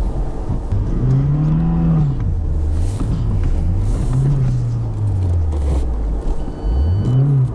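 Lada Niva Travel's 1.7-litre four-cylinder engine revved up and down three times, the last rise sharp, as the car tries to climb out of a muddy rut.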